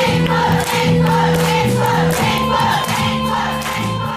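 Live band music with a steady beat and bass line under a long held note, with voices singing. The loudness begins to fall away near the end as the song closes.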